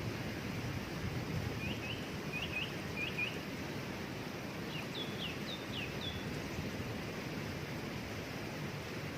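Steady rushing of a waterfall, with a bird giving short, falling chirps in two quick runs, one starting about a second and a half in and another around five seconds in.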